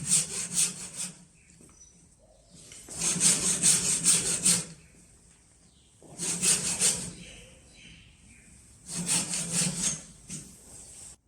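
Handsaw cutting wood in short bouts of quick back-and-forth strokes, stopping for a second or two between bouts; the first bout ends about a second in and three more follow.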